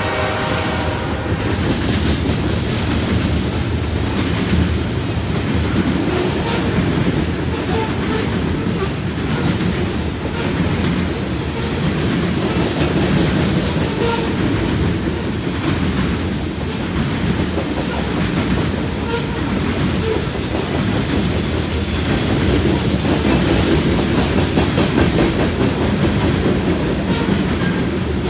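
Covered hopper cars of a freight train rolling past: a steady rumble of steel wheels on rail with repeated clacking. The locomotive's horn dies away about a second in.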